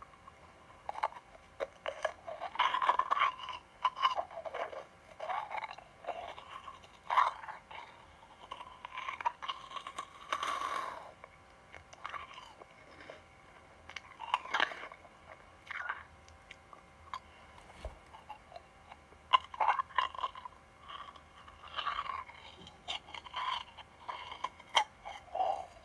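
Crunchy sweets being bitten and chewed close to the microphone: irregular bursts of crisp crunching with short pauses between bites.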